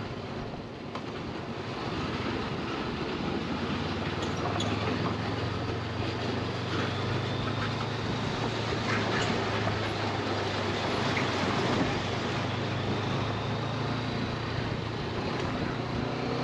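Motorcycle engine running steadily under way, with wind and road noise over it. It gets a little louder about two seconds in.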